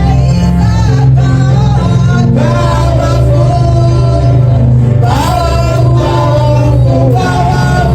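Live gospel praise music: a singer leading over a band with a steady bass, with sung melody lines gliding between notes.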